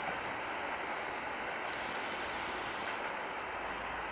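Meter-gauge passenger train rolling past with a steady noise of wheels on rail.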